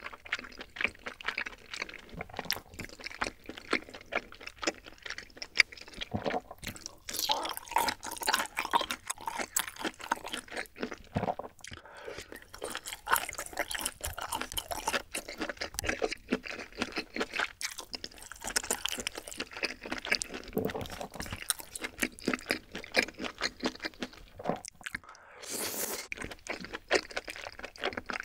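Close-miked mukbang eating sounds: a person chewing and crunching food, a dense run of small quick mouth clicks and crackles. Near the end comes a brief, louder hissing rush.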